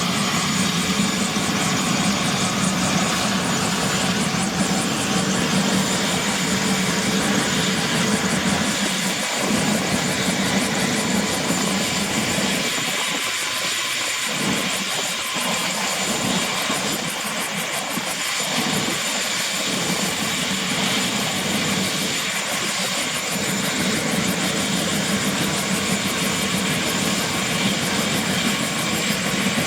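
Bell 212 twin-engine helicopter running on its Pratt & Whitney Canada PT6T Twin-Pac turboshafts, a steady turbine whine over dense engine and rotor noise. The low rumble thins out between about halfway and three-quarters of the way through, then returns.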